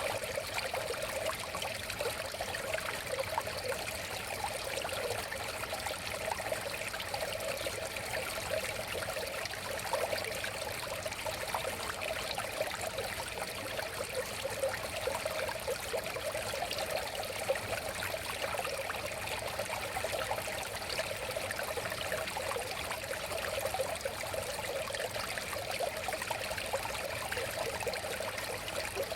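River water flowing steadily, a constant babbling rush without breaks.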